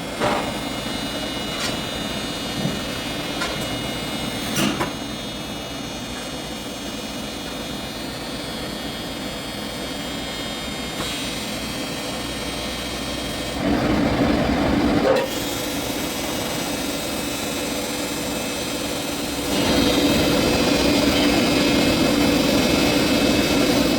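TIG welding arc buzzing steadily in two stretches, one of about a second and a half and a longer one near the end, over the steady hum of shop machinery. A few sharp clicks come in the first five seconds.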